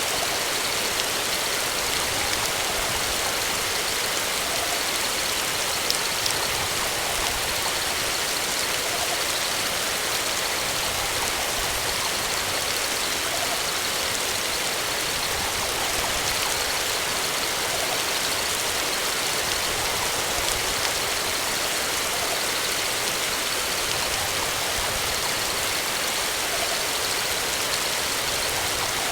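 A steady, even hiss that runs on unbroken.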